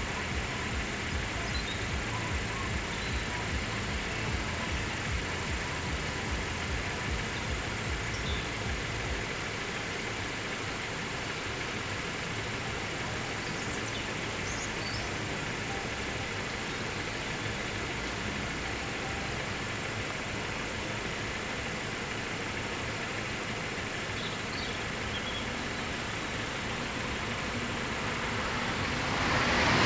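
Road vehicles idling at a level crossing, with a steady rumble, a regular ticking about twice a second that stops about nine seconds in, and faint bird chirps. Near the end an approaching train quickly grows loud.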